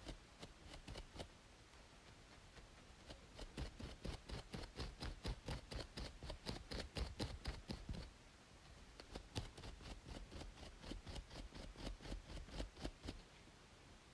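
Scalp being scratched between braids, fast rhythmic scratching strokes several a second, coming in runs with two short pauses, over a steady faint white-noise hiss.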